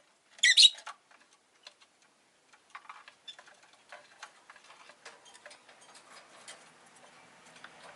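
A rosy-faced lovebird gives one short, loud, shrill chirp about half a second in, followed by a run of faint, scattered clicks and taps.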